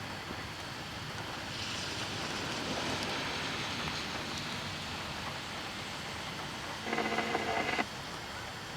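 Rain falling steadily, swelling a little about two seconds in.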